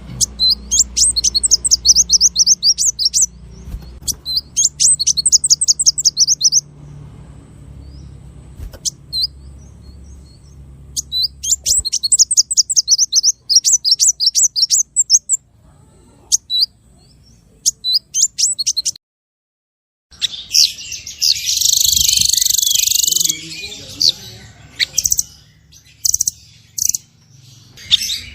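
Recorded song of small songbirds: bursts of rapid, sharp, high repeated notes, each burst lasting two to four seconds. After a short gap about two-thirds of the way in, a denser scratchy chatter follows, then scattered chips.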